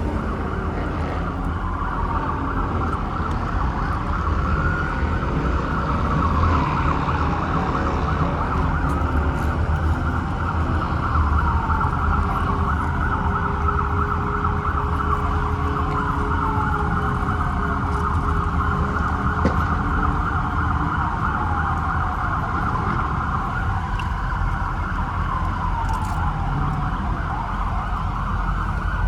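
Police sirens sounding continuously to clear the crowd: a fast warbling yelp, broken about every four seconds by a long falling wail. Under them runs a steady low rumble.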